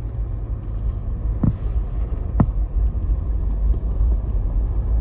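Car driving on a back road, heard from inside the cabin: a steady low rumble of road and engine noise, with two short knocks about a second apart.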